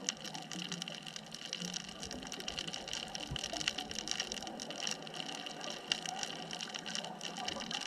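Underwater ambience on a deep artificial reef: a steady crackle of many small, dense clicks over a constant water hiss.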